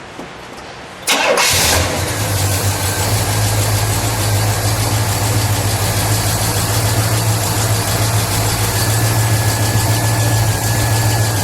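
1969 Pontiac GTO Judge's 400 cubic-inch V8 cranked and starting about a second in, catching quickly and settling into a steady idle.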